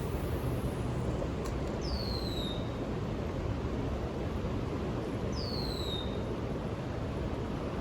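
Steady low rumble of outdoor background noise, with a bird giving a short whistled call that slides downward, twice: about two seconds in and again after five seconds.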